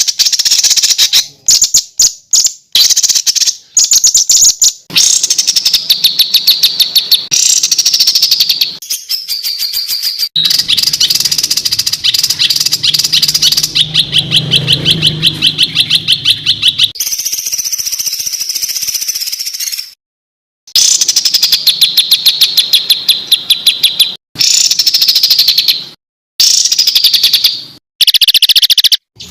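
Edited compilation of songbird calls used as masteran training audio: fast, harsh, rapid-fire chattering trills repeated in dense runs, in segments that start and stop abruptly, with a brief break about two-thirds of the way through.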